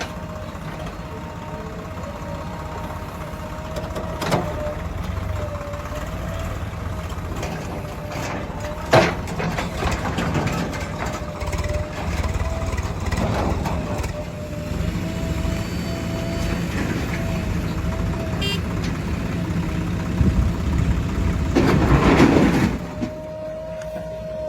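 Heavy diesel vehicle engine running steadily with a constant whine, broken several times by sharp knocks and clanks, with a louder, rougher stretch near the end.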